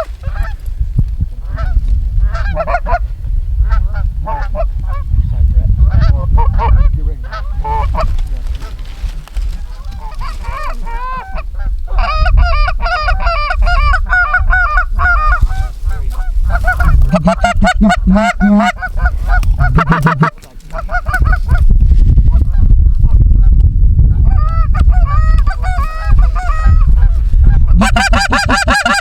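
Geese honking, many calls overlapping like a flock calling, thickest in the second half, over a steady low rumble.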